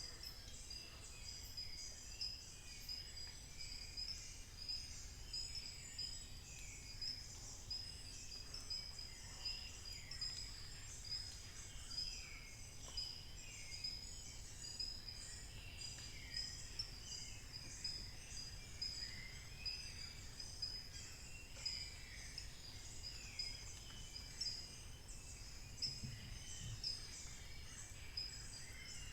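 Forest dawn chorus: many birds calling at once, with short falling calls repeating about once a second, over a steady high-pitched insect drone.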